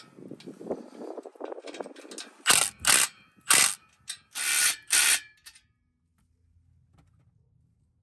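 Exhaust clamp nuts being tightened: a ratchet clicking and rattling, then five short, loud bursts typical of a power impact wrench. After the bursts it falls nearly silent.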